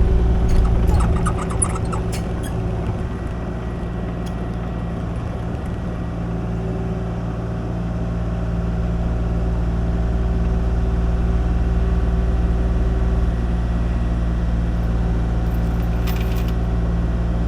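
Kubota KX040 mini excavator's diesel engine running steadily while it works, its note getting louder from about halfway through. A few sharp metallic clinks come in the first couple of seconds, and a brief hiss near the end.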